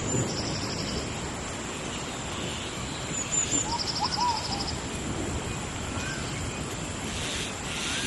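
Steady rain in a tropical rainforest, with birds calling over it: a rapid high trill twice and a few short whistled notes near the middle.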